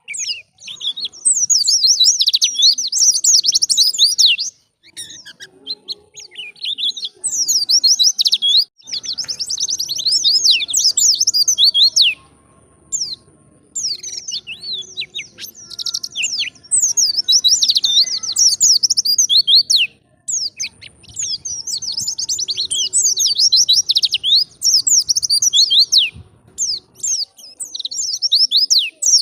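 White-eye (pleci) singing loudly: rapid, high twittering song phrases of several seconds each, broken by short pauses.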